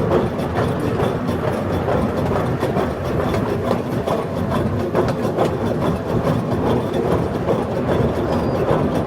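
Small amusement-ride train running along its track: a steady rumble with continuous rattling and clicking from the cars and wheels.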